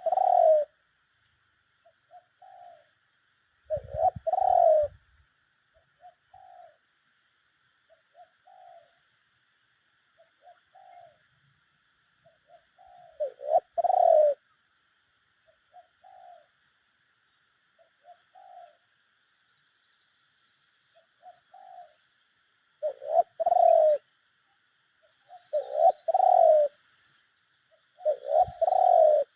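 Spotted doves cooing: one close bird gives loud coo phrases every few seconds, with fainter single coos from a second dove in between, the two answering each other.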